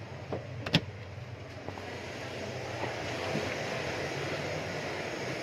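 Steady rushing jet aircraft noise, swelling slightly, with a single sharp click just under a second in.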